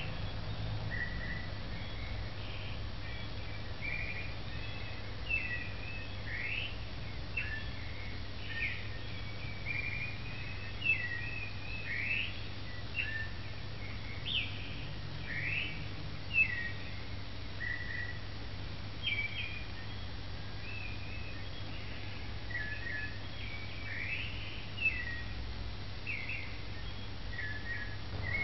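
Small birds chirping and twittering in short, varied calls, a few every second, over a steady low hum.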